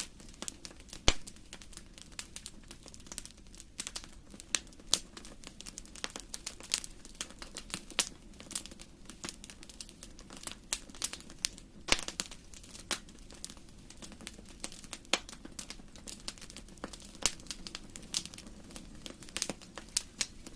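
Fire in a fireplace crackling: irregular snaps and pops over a faint low hiss, with the sharpest pop about a second in and another strong one near twelve seconds.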